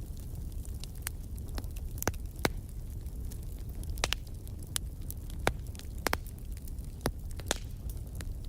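Wood fire in a fireplace crackling: sharp, irregular pops and snaps, a few much louder than the rest, over a steady low rumble.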